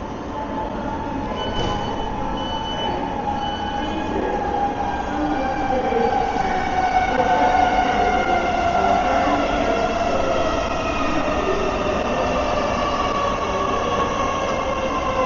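Thameslink electric train running, with the rumble of the carriage and a motor whine that slowly falls in pitch as the train slows down. Three short high beeps sound near the start.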